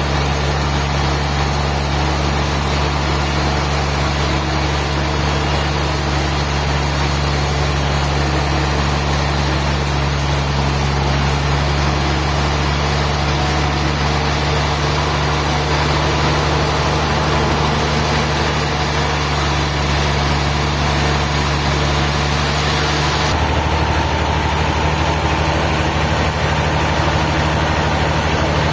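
An engine running steadily with a constant low hum. Its sound changes abruptly about 23 seconds in.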